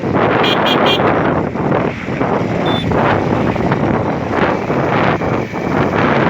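Heavy wind buffeting on the microphone of a moving bike, a loud gusty rush with the ride's road and vehicle noise underneath.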